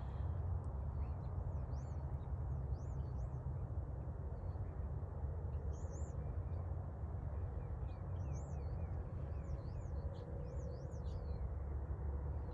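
Small birds chirping faintly in a string of short, high, rising-and-falling notes, over a steady low rumble.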